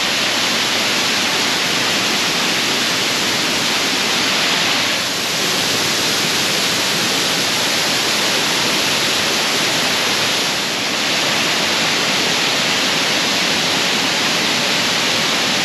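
A 63-foot waterfall heard from close by: the steady, loud rush of falling water. The level dips slightly twice, about five and eleven seconds in.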